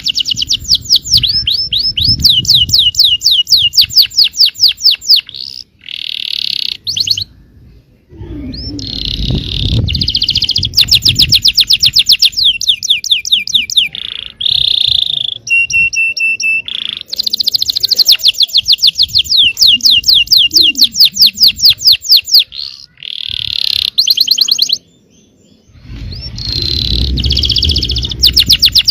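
Yellow canary singing: long, fast trills of rapidly repeated high notes, broken by a few brief pauses.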